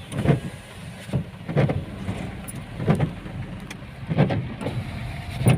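Car windscreen wipers sweeping in rain, with a regular thump about every 1.3 seconds, five in all. Under them is the steady low rumble of the moving car, heard from inside the cabin.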